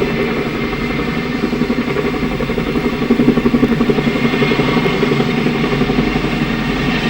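CH-47 Chinook helicopter running loud and steady, its twin rotors throbbing in a fast, even beat over the turbine noise, swelling slightly towards the middle.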